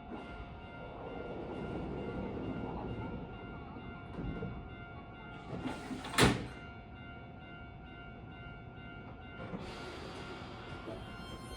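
Keihan 10000-series train at the platform with its doors closing, shutting with one sharp thud about six seconds in. A hiss of air comes up near the end as the train readies to depart.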